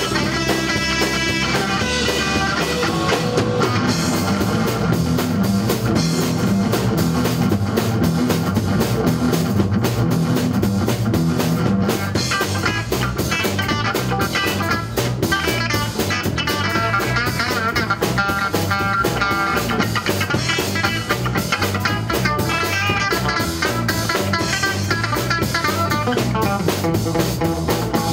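A rock band playing live: electric guitar and drum kit.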